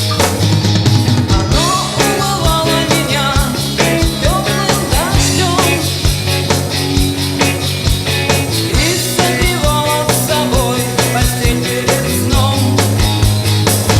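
Live band music with a steady drum beat, sustained bass notes and a melody line that may be a singing voice.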